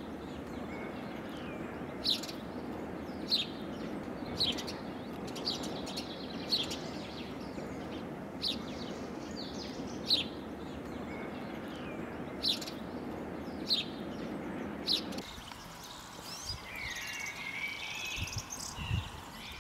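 Birds chirping outdoors: a short high chirp repeated about once a second over a steady background hiss. The hiss drops away about fifteen seconds in, and other, more varied bird calls follow.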